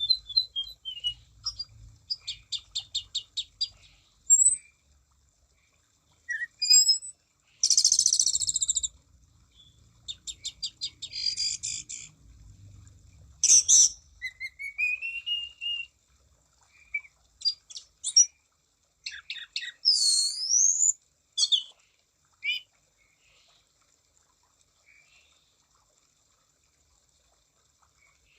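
Anis cendana thrush singing a varied song: rapid trills of repeated notes, slurred rising and falling whistles and sharp high calls, with gaps between phrases. It falls almost silent over the last few seconds.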